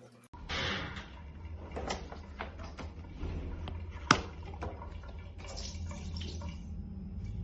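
Mini portable washing machine running with water in its tub: a steady low motor hum under water sloshing and small knocks, with one sharp click about four seconds in.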